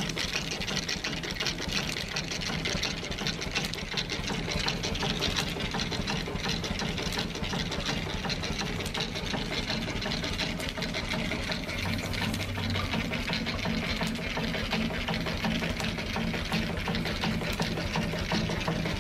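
Morris steam engine running steadily, a fast, even mechanical clatter over a low hum, with the bevel gears on its governor making a little noise.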